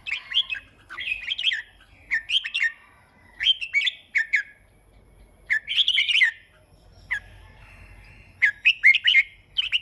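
Red-whiskered bulbul singing: short phrases of quick, rising and falling whistled notes, repeated about every second, with a couple of longer pauses in the middle.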